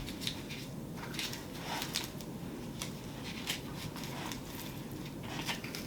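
Faint, scattered light clicks and rustles of small objects being handled, about half a dozen of them.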